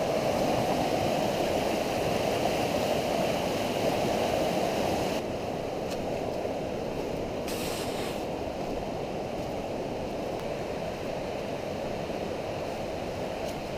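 Steady rushing of a fast-running, flood-swollen river, which drops a little in level about five seconds in. A brief hiss comes near the middle.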